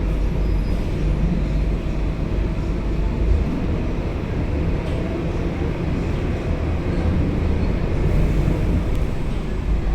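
Scania K270UB city bus on the move, heard from inside the cabin: steady engine and road noise with a low rumble.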